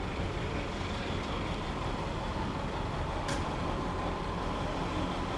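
Steady engine and road noise of a vehicle driving along, with one short sharp click a little over three seconds in.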